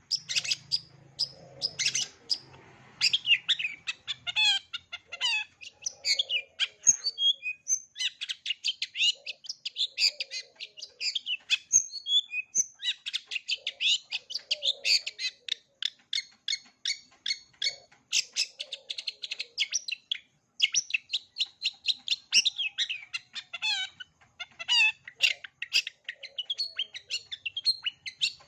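Long-tailed shrike singing a fast, chattering song of rapid repeated notes strung together with varied mimicked phrases, pausing briefly a couple of times.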